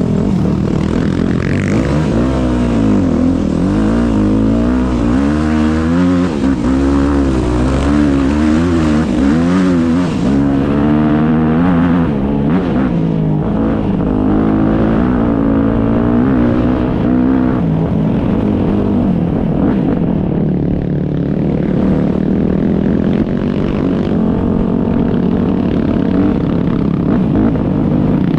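Several motocross motorcycle engines revving up and down, their pitch rising and falling over and over, settling into a steadier run in the second half.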